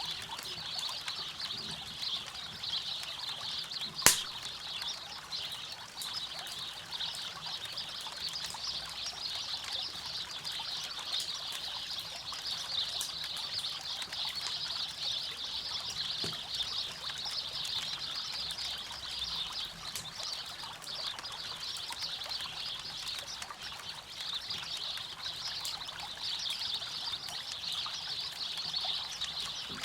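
Campfire crackling with one sharp, loud pop about four seconds in, over the steady rush of a river.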